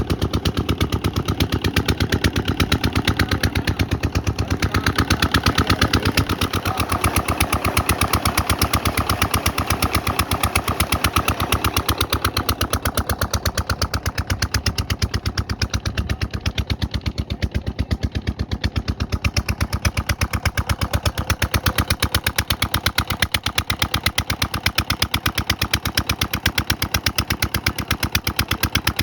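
Engine running steadily with a rapid, even beat of several pulses a second.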